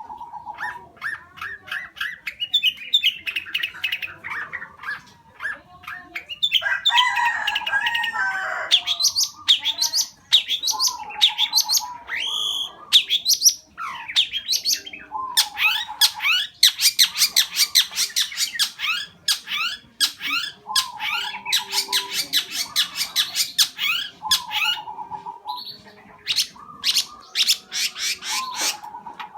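Male long-tailed shrike (cendet) singing continuously: a rapid, varied stream of sharp sweeping notes, fast trills and harsh chattering squawks, with brief pauses. This is the full song that hobbyists call "gacor", packed with mimicked fill-ins.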